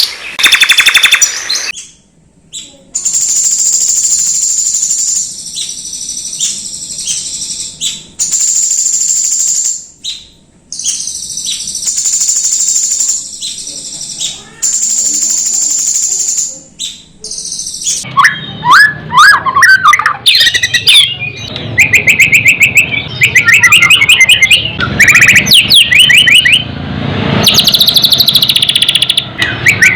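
Songbird song: long, high, thin trills with short breaks through the first half, then rapid, varied chirping phrases with quick rising notes from a little past the middle.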